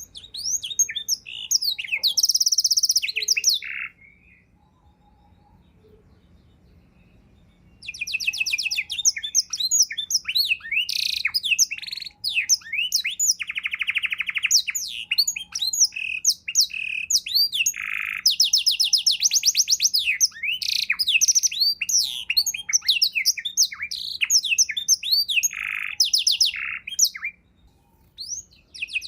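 Domestic canary singing a varied song of rapid trills, sharp chirps and buzzy rolls. A short phrase opens, then after a pause of a few seconds a long continuous bout of about twenty seconds, a brief gap, and the song starts again at the very end.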